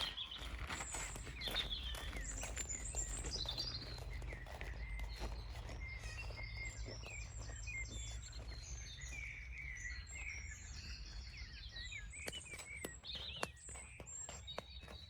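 Several small birds chirping and calling in short, overlapping notes, over a low steady rumble that fades near the end.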